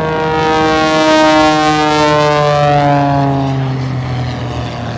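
CAP 232 aerobatic plane's propeller and engine sweeping past, the pitch dropping steadily as it goes by; loudest about a second or two in, then fading.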